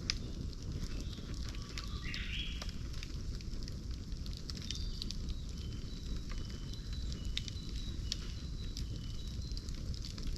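Bonfire burning with a low steady rumble and scattered small crackles and pops. Short, faint, high chirp-like tones come and go in the second half.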